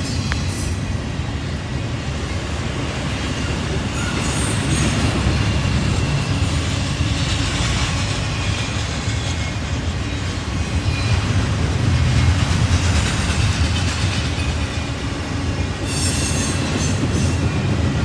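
Norfolk Southern freight train rolling past: a steady low rumble of locomotives and cars on the rails, with short bursts of high-pitched wheel squeal about four seconds in and again near the end.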